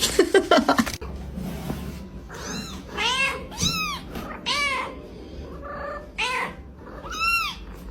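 Cat meowing repeatedly: about six short meows, each rising and then falling in pitch.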